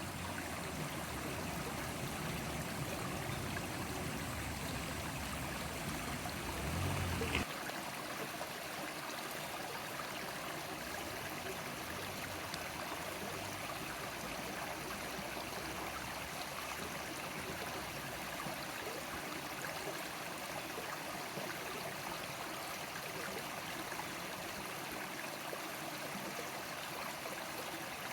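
River water flowing steadily. A low rumble lies under it for the first seven seconds, swells briefly and then stops abruptly.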